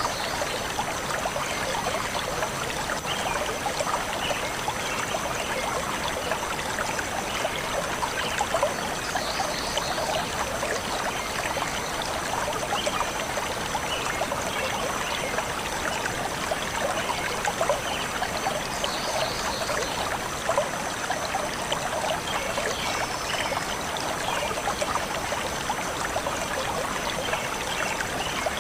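Shallow forest stream flowing steadily over rocks, a continuous bubbling and trickling. Faint bird chirps come through every several seconds.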